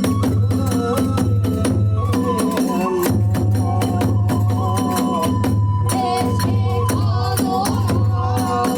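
Kagura hayashi accompaniment: a bending flute melody over continuous drumming and rapid clashing of small hand cymbals (tebyōshi).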